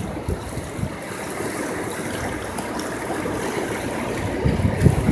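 Rushing river water, a steady wash of noise. Near the end, gusts of wind buffet the microphone with a low rumble.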